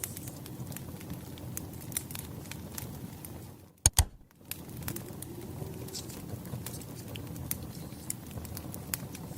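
Wood fire crackling, with scattered snaps and pops over a low steady rumble. About four seconds in it drops out briefly, with two sharp clicks in the gap.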